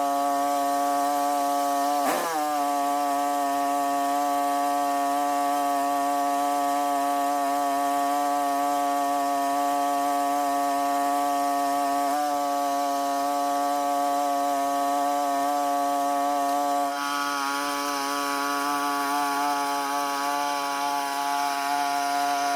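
Small petrol engine of a hand-held power tool running at a steady high speed, its pitch dipping and recovering once about two seconds in. A hiss joins in near the end.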